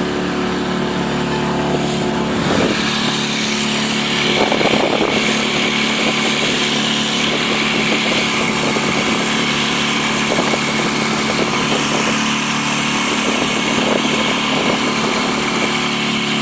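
Motorboat engine running steadily under way, a constant drone over a steady hiss, with a couple of brief louder rushes about two and a half and four and a half seconds in.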